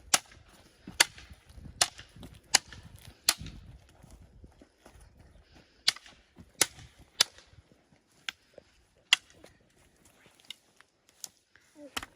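A series of about a dozen sharp, dry snaps or cracks, spaced unevenly and coming faster in the first few seconds.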